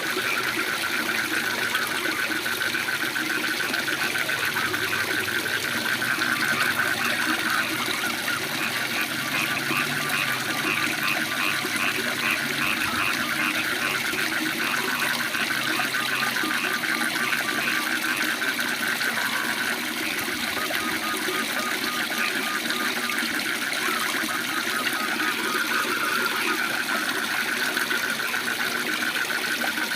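Waterfall rushing steadily, with frogs calling over it in fast pulsed trills that are strongest in the first half.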